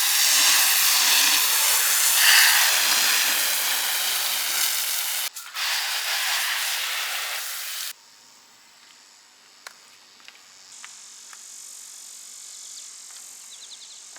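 Water spraying in two long hissing bursts, about five seconds and then about two seconds, cutting off sharply; afterwards only a faint hiss with a few light clicks.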